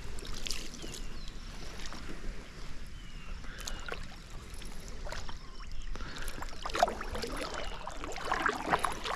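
Kayak paddle strokes: the blades dip and splash, with water dripping off them, in an irregular rhythm that grows busier in the second half. A few faint short chirps sound high above.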